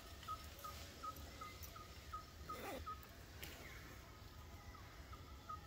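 Faint jungle ambience with a bird repeating a short, clipped note about three times a second. About two and a half seconds in, a single call glides sharply downward, followed shortly by a sharp click.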